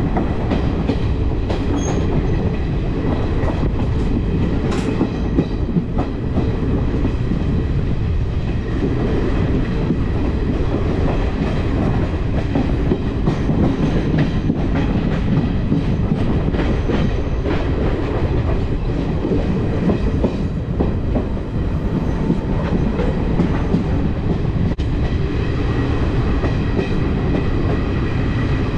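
Passenger train running on the rails: a steady low rumble with irregular sharp clicks of the wheels passing over rail joints.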